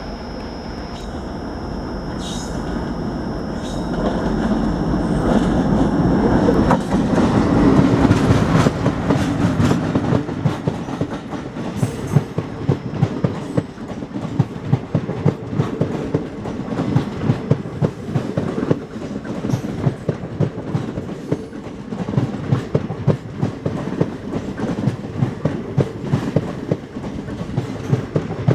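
WDM-3A diesel-electric locomotive (ALCO V16 engine) growing louder as it comes close, loudest about eight seconds in as it goes by. After that the passenger coaches roll past, their wheels clicking over the rail joints in a steady rhythm.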